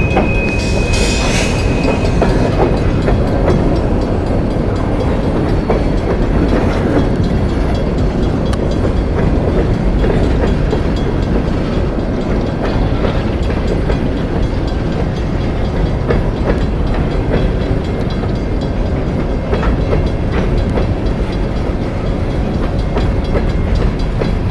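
Long coal train's cars rolling past on a curve: a steady rumble of wheels on rail with occasional clicks. A thin high steady squeal in the first few seconds then fades, typical of wheel flanges rubbing on a curve.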